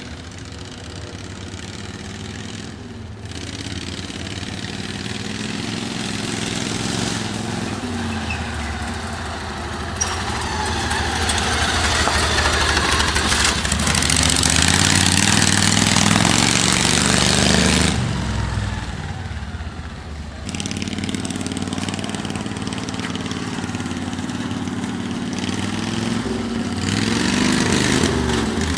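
A vehicle engine running, getting louder through the middle, dropping briefly about eighteen seconds in and picking back up, with the revs rising near the end.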